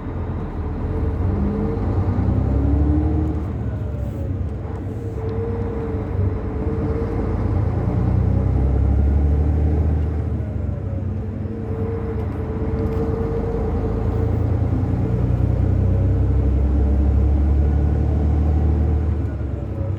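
Mercedes-Benz Travego 15 SHD coach's diesel engine accelerating through the gears, its note rising and dropping back at each shift and swelling about three times. The turbocharger whistle rises and falls above it.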